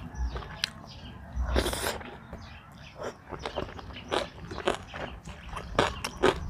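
A person chewing and biting food close to the microphone: irregular wet clicks and crunches.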